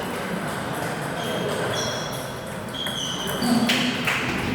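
Table tennis play in a hall: the ball being struck and bouncing, with two sharp knocks near the end and several short high-pitched pings, over a steady murmur of distant voices.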